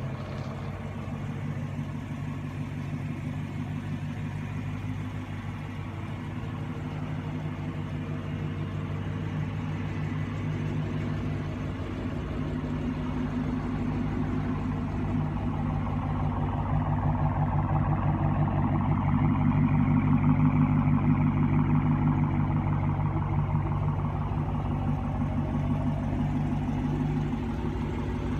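Dodge Challenger R/T's 5.7-litre HEMI V8 idling with a steady low rumble. It grows louder for a few seconds around the middle, then settles back.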